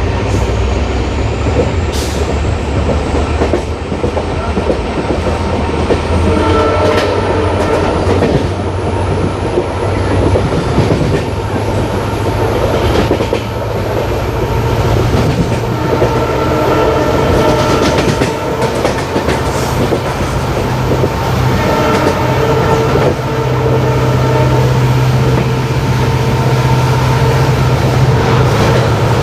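Diesel-hauled passenger train running, with the wheels clicking over rail joints. Under it runs the low hum of the WDP4D locomotive's EMD two-stroke diesel engine, which grows stronger about halfway through.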